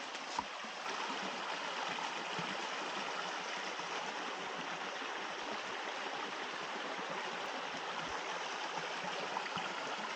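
Small stream running over a little cascade: a steady rush of water.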